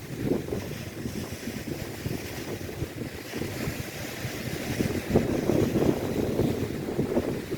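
Strong wind buffeting the microphone in uneven gusts over the wash of lake waves breaking on the shore, growing a little louder about five seconds in.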